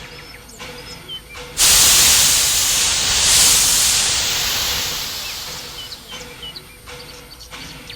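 Steam locomotive letting off steam: a sudden loud hiss starts about one and a half seconds in and fades away gradually over about five seconds. Birds chirp before and after it.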